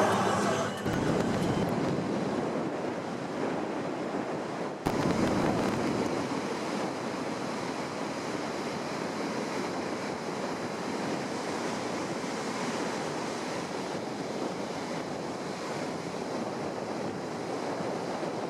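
Sea surf washing in steadily, with wind on the microphone; the sound changes abruptly about five seconds in.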